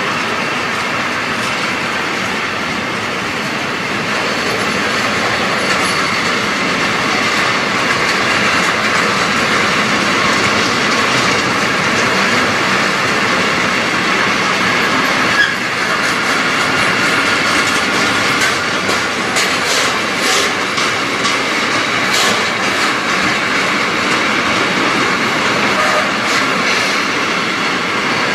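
Container wagons of a freight train rolling past: a steady rolling noise from the wheels on the rails, with clacks as the wheels cross the rail joints, more frequent in the second half.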